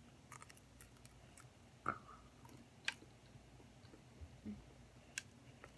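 Faint chewing of a mouthful of pizza, with a few short sharp clicks, the clearest about two and three seconds in.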